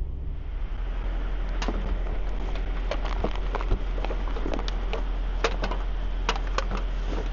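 Truck running with a steady low hum, with irregular clicks and rattles starting about a second and a half in.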